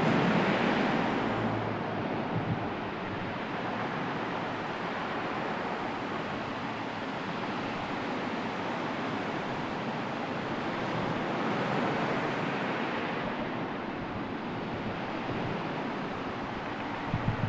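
Sea waves washing ashore: a steady rush of surf that swells at the start and again about twelve seconds in.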